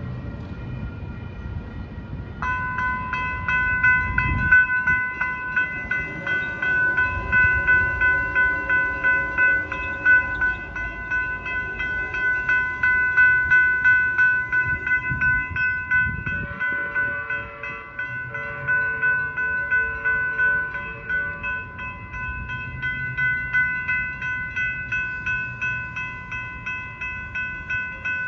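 Electronic railroad crossing bells (U&SS e-bell and General Signal Type 3 e-bell) start ringing about two seconds in, a fast, even strike repeated steadily as the crossing activates. A lower tone joins for a few seconds in the middle, over a low background rumble.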